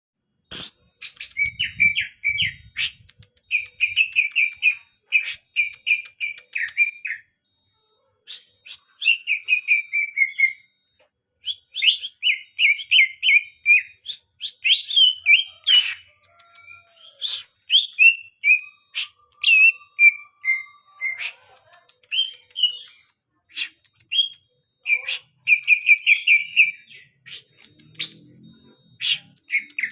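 Green leafbird (cucak hijau) singing: quick chattering and warbling phrases in runs of a few seconds, some sliding down in pitch, with short pauses between them.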